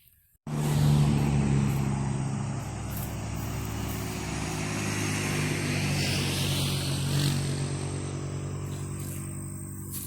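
Bobcat skid-steer loader's engine running steadily, cutting in abruptly about half a second in and easing off slightly near the end.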